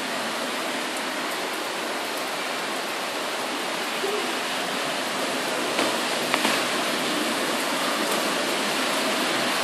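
Steady thunderstorm rain, a constant even hiss, with a few small ticks about six seconds in.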